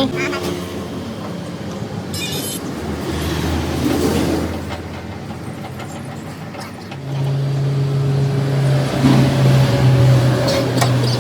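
Metal lathe running: a steady machine hum over a noisy haze, stepping up and louder about seven seconds in, with a few scattered clicks.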